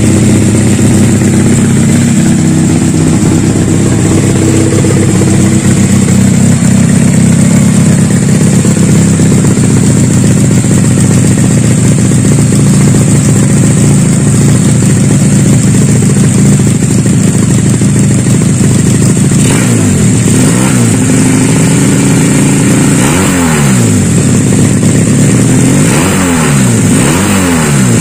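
Custom two-cylinder Honda Supra motorcycle engine idling steadily, then revved in short throttle blips, first singly and then several in quick succession over the last few seconds.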